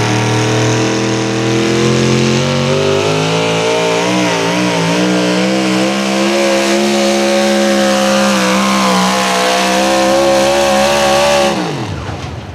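Naturally aspirated 650-cubic-inch engine of a modified 4x4 pulling truck at full throttle under sled load, its pitch climbing slowly with a wavering stretch midway. Near the end it drops off sharply as the throttle is lifted.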